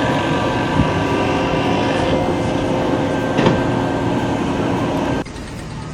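Loud, steady machine noise with several held tones over it, cutting off suddenly about five seconds in.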